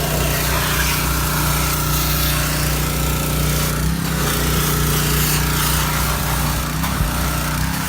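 Small pit bike engine running at a steady speed under a loud hiss, dipping briefly about halfway through and again near the end.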